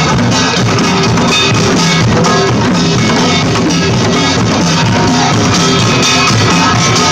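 Loud live band music with a drum kit and guitar playing.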